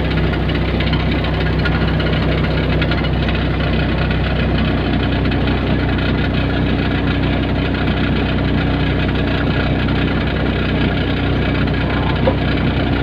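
Hyundai excavator's diesel engine running steadily, with a higher steady whine joining about four and a half seconds in.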